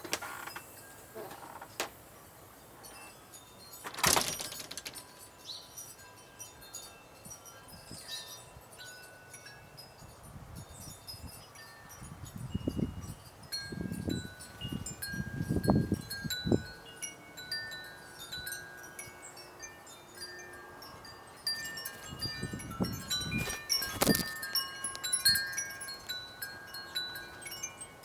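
Wind chimes ringing irregularly, many short clear tones overlapping. There is a sharp knock about four seconds in and low rumbles partway through.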